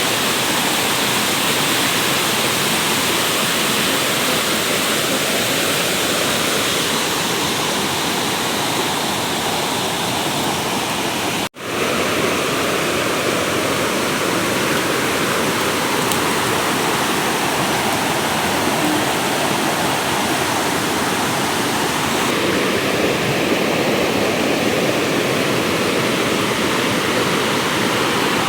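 Steady rush of water from a small waterfall, a continuous noise that cuts out for an instant about eleven seconds in.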